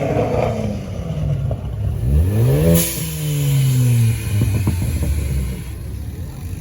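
Car engine revving once: the pitch climbs quickly for under a second, then falls away over about a second, with a few short cracks soon after.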